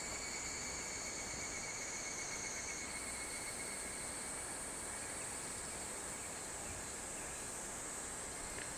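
Steady chorus of summer insects singing in several high, continuous trills over an even background hiss; the highest trill steps up in pitch about three seconds in.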